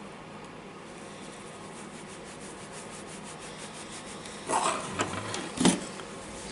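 Hands working on the parts of a disassembled cordless angle grinder: a faint quick scratching and rubbing, then a short louder scrape and two sharp clicks a little past the middle.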